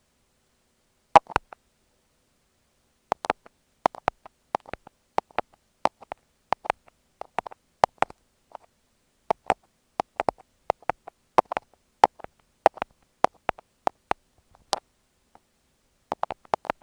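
Thumbtacks clicking against an earphone microphone, close up: sharp taps, often in pairs and about two a second, with short pauses about a second in and near the end.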